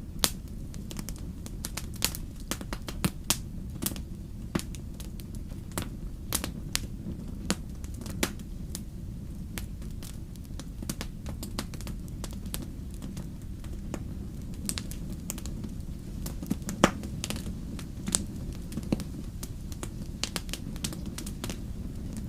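Fire crackling: irregular sharp pops and snaps over a steady low rumble, with one louder pop a little past the middle.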